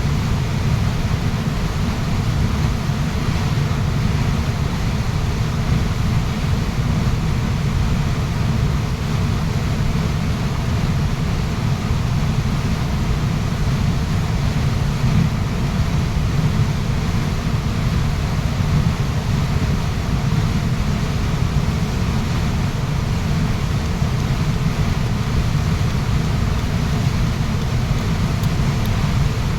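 Waterfall rushing: a loud, steady, unbroken wash of falling water, heaviest in the deep range.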